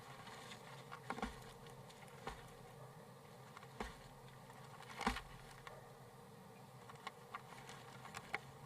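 Faint, irregular taps and scratches inside a nest box, loudest about five seconds in, over a steady low hum.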